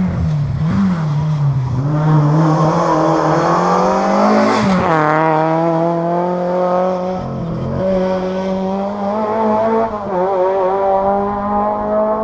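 Historic rally car engine at full throttle on a stage, revs climbing for about four seconds, changing abruptly about four and a half seconds in, then held high with brief lifts near seven and eight seconds.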